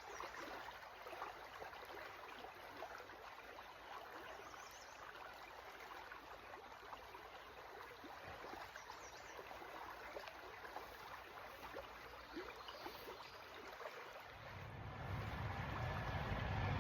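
Small creek flowing and trickling steadily. Near the end a car on a nearby road rises into hearing as a low rumble, growing louder.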